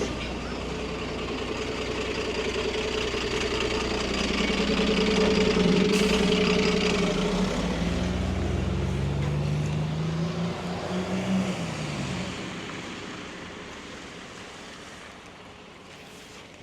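A city bus's engine running and pulling away, its pitch rising as it accelerates, then fading out as it drives off.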